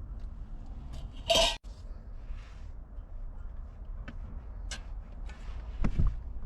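Vegetables being put into a simmering hot pot: one short, loud rustle or splash about a second in, then a few light knocks and clinks of utensils against the pot, over a steady low rumble.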